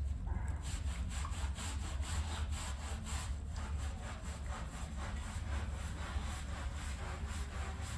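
Stiff brush scrubbing a wet rug in quick back-and-forth strokes, about two to three a second, starting about half a second in, over a steady low hum.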